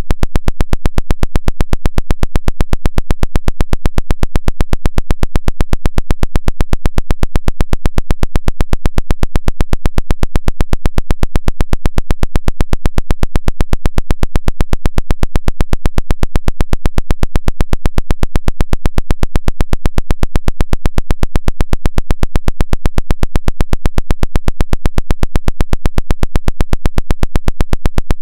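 Pulsed radio 'woodpecker' signal: a loud, rapid, perfectly even train of clicking pulses, like a fast mechanical tapping, that never changes.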